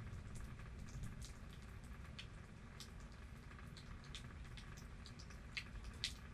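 Rain falling, with single drops ticking sharply close by, scattered throughout and sharpest twice near the end, over a steady low rumble.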